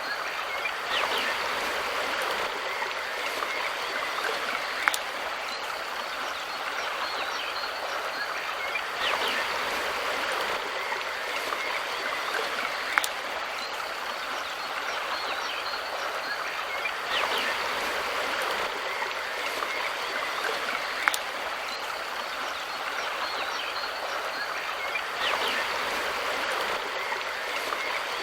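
Mountain river water rushing steadily, swelling a little about every eight seconds, with a short sharp click recurring on the same cycle.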